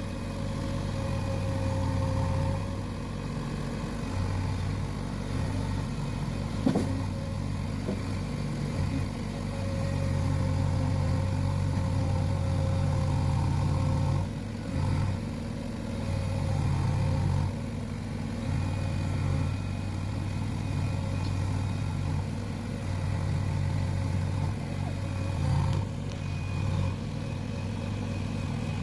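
Backhoe loader's diesel engine running under working load, its note swelling and easing every few seconds as the hydraulics lift and dig coal from a truck. A single sharp knock about seven seconds in.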